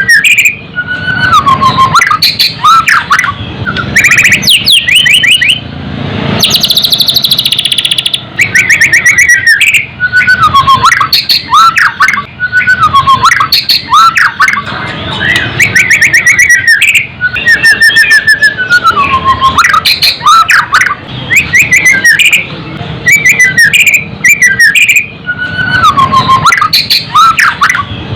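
White-rumped shama (murai batu) singing loudly and without pause: repeated down-slurred whistles mixed with fast rattling trills and a harsh, scratchy passage about six seconds in.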